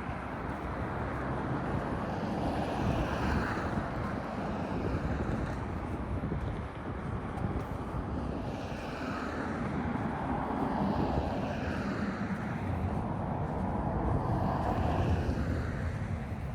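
Steady rumble of motor traffic, a continuous low engine and tyre noise that swells and eases every few seconds.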